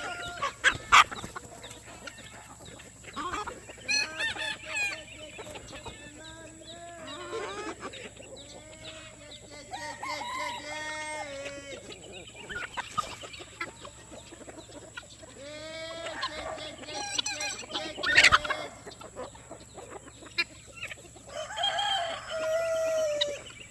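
A flock of chickens clucking and calling, with a rooster crowing now and then, and a couple of sharp knocks.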